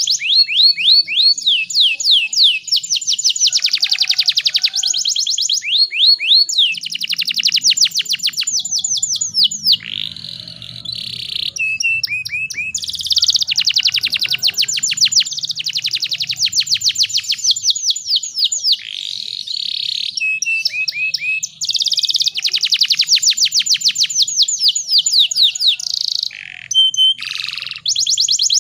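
Domestic canary singing: rapid trills and rolls of quick repeated chirps, one phrase straight after another with only short breaks.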